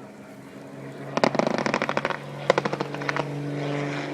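Two bursts of rapid simulated machine-gun fire, the first about a second in and the second shortly after, over the steady drone of a piston aircraft engine.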